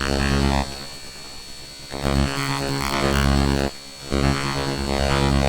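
Raw computer data played back as audio: a buzzing, humming drone with a thin steady high tone above it. It switches abruptly between loud and quieter stretches every one to two seconds.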